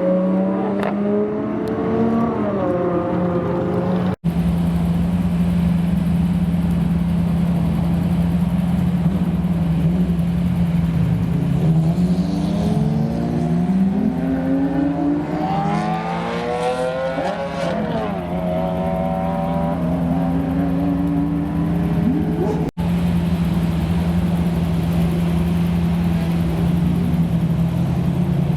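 Lamborghini supercar engines idling with a steady deep drone, while several cars rev up and accelerate, their pitch sweeping up, most strongly in the middle stretch. The sound drops out sharply and briefly twice.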